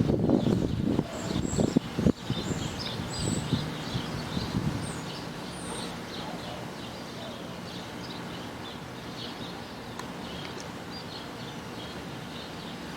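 Small birds chirping repeatedly in short high notes, over a low gusting rumble that fades away about five seconds in.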